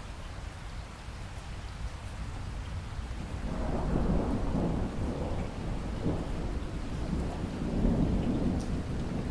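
Steady rain with thunder: a rolling rumble builds up about three and a half seconds in and keeps rumbling.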